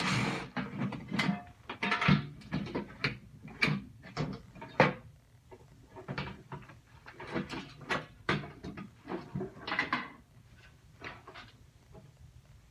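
Irregular knocks, clanks and scrapes of a microwave's sheet-metal casing being worked loose and handled as a panel comes off. The clatter thins out near the end.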